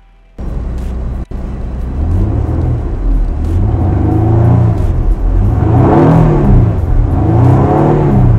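Nissan Maxima's 3.5-litre V6 engine free-revving with the car standing still. It runs steadily at first, then is blipped several times, its pitch rising and falling with each rev as the tachometer climbs to around 5,000 rpm.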